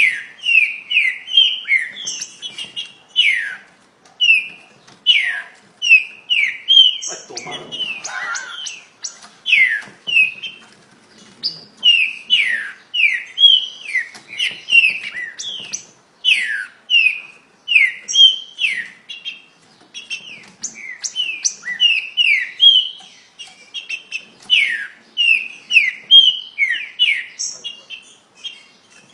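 Green-winged saltator (trinca-ferro) singing a very fast, unbroken string of short downslurred whistled notes, several a second, with only brief pauses.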